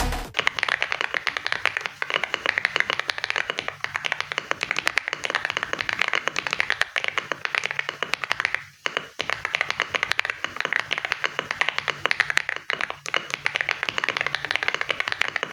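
Fast, continuous typing on an AOC K98 Pro mechanical keyboard: many key clicks a second, with one short pause just past the middle.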